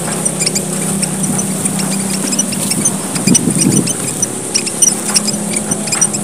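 A lively flock of emprit merah papua (small red Papuan finches) chattering in a gocar lure call: many quick, high, squeaky chirps overlapping. A steady low hum runs underneath.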